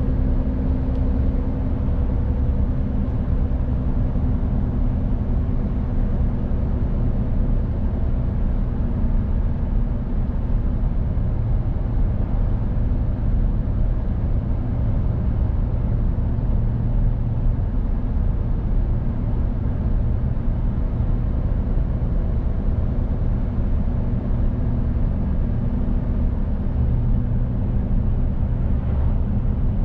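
Mercedes-Benz Actros truck's diesel engine running steadily while driving, a low hum with tyre and road noise.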